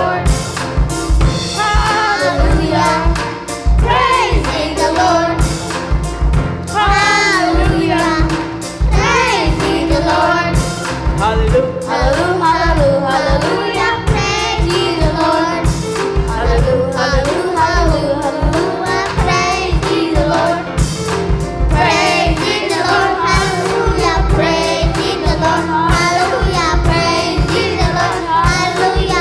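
Young voices singing a gospel worship song together, over drums and band accompaniment.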